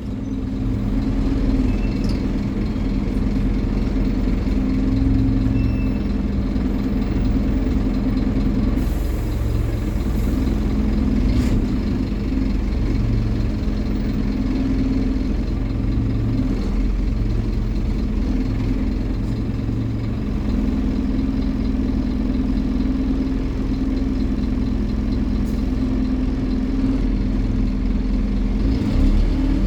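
Scania N270UD OmniCity bus's diesel engine running at a steady, idle-like speed, with a brief hiss of air about nine seconds in.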